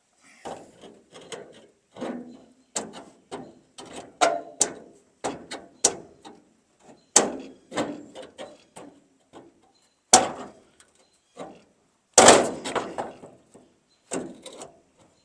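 Irregular knocking and clanking of a steel pickup tailgate being wrestled on its hinges, a couple of hits a second with some short ringing. There are heavier clanks about seven and ten seconds in, and a loud cluster about twelve seconds in. The tailgate won't sit right because the bed is sprung, and the hinges need shimming.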